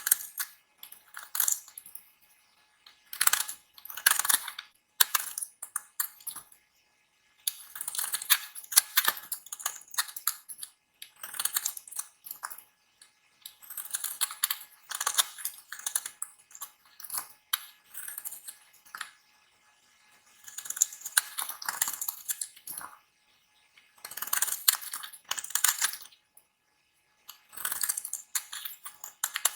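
Knife cutting through a bar of dry soap: crisp, crackling scrapes in bursts of one to a few seconds, with short pauses between cuts.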